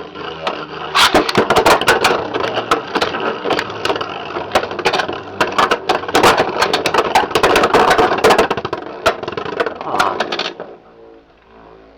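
Two Beyblade X spinning tops, Yell Kong and Impact Drake, whirring and clashing in a plastic stadium: a continuous spinning scrape with many rapid, sharp clacking hits from about a second in. The noise stops abruptly near the end as the tops stop and the battle is decided.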